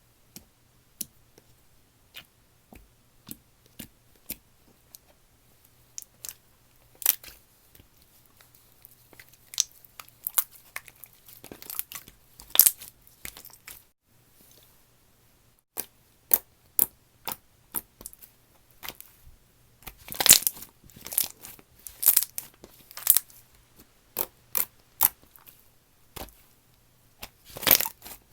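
Slime being handled by hand, giving sharp sticky pops and crackles: single clicks a second or so apart at first, growing denser, with longer crackling stretches about two-thirds of the way through and again near the end.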